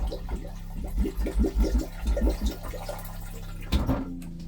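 Water running into a boat's vacuum-flush toilet bowl while a pump hums steadily with a rapid, even pulsing. There is a louder clunk near the end, and the pump stops just after.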